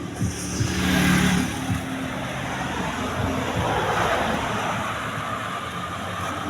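A motor vehicle passing along the road, its engine and tyre noise swelling about a second in and again a few seconds later.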